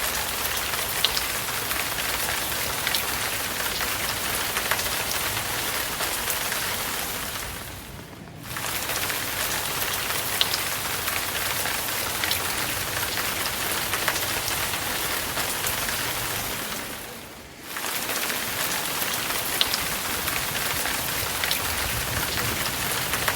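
Steady rain falling, with scattered single drops ticking louder; the sound dips briefly and comes back twice.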